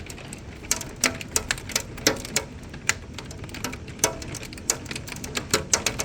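Hailstones striking hard surfaces: irregular sharp clicks and knocks, a few each second, over a steady background hiss.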